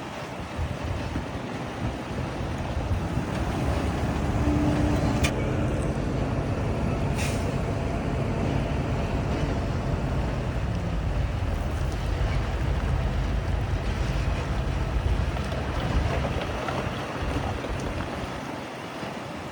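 Heavy diesel engine of earthmoving machinery running under load, its rumble building over the first few seconds and easing near the end. A sharp click comes about five seconds in and a short hiss about seven seconds in.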